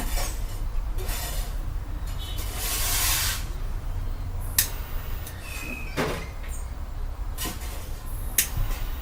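Scattered clicks and knocks of objects being handled, with a short hiss about three seconds in, over a steady low hum.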